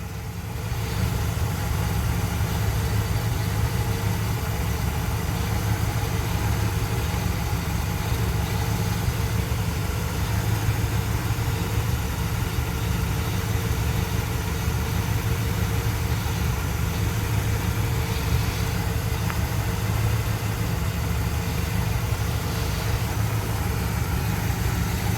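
1973 Dodge D100 pickup engine idling steadily, getting louder about a second in. No exhaust tick is heard: the earlier ticking was traced to loose exhaust manifold bolts and nuts, now tightened.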